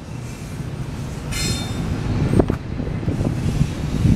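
Union Pacific double-stack intermodal freight train rolling past: a steady low rumble of wheels on rail. A brief high-pitched squeal comes about a second and a half in, and a couple of sharp knocks follow later.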